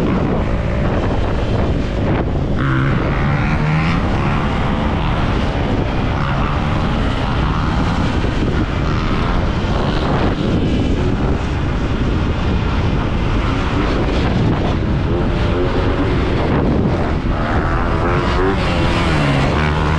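Dirt bike being ridden, its motor drone rising and falling in pitch with the throttle, under heavy wind rush on the action-camera microphone.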